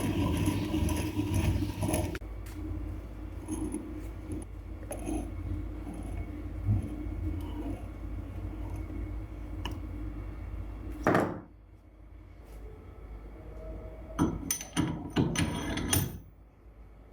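Metal parts clinking and knocking as they are handled, with a steady low hum underneath. There is a noisy rustle in the first two seconds, one loud knock about eleven seconds in, and a quick run of ringing metal clinks near the end.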